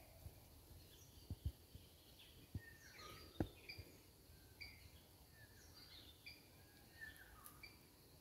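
Birds chirping with many short, repeated high notes over faint background noise. A few dull low thumps come between about one and three and a half seconds in.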